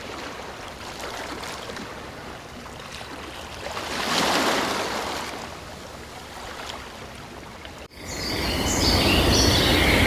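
Steady rushing outdoor noise like running water, swelling about four seconds in. Near the end it cuts off abruptly to louder bird chirps over a steady high-pitched hum.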